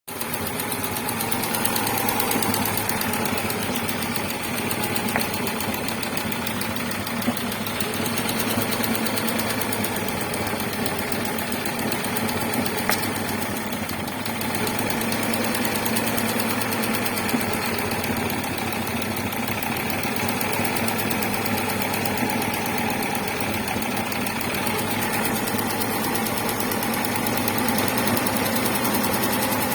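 Audi 2.3-litre AAR inline five-cylinder engine running steadily at idle with a knock, whose cause the owner does not know. A few sharper clicks stand out over the running sound.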